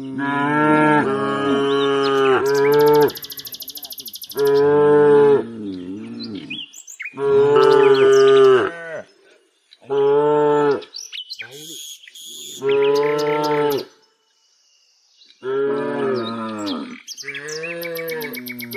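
Cattle mooing: about seven long, drawn-out moos one after another, with short pauses between them. Brief high chirping or buzzing sounds come in between some of the calls.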